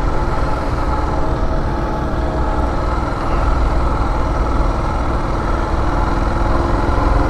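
Suzuki DR650's single-cylinder engine running steadily as the motorcycle rides two-up, with a heavy low wind rumble on the microphone.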